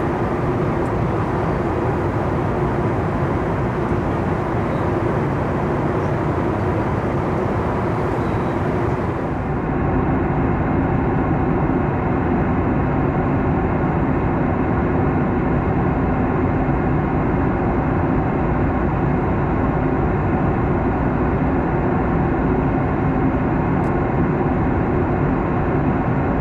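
Steady cabin noise of a Boeing 737 MAX 9 in flight: rushing air with a low hum from its CFM LEAP-1B engines. About nine seconds in, the high hiss drops away abruptly and the steady drone carries on.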